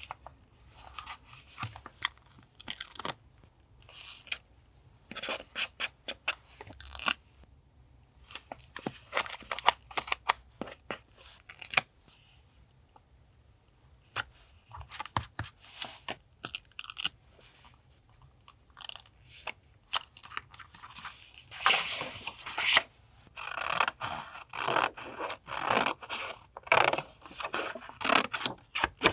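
Paper crinkling and rustling as collage papers are handled, in many short crackles. They thin out briefly in the middle and come thicker and louder in the last several seconds.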